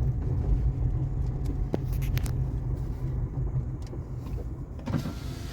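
Strong gusty wind buffeting the microphone: a steady low rumble with a few faint clicks about two seconds in.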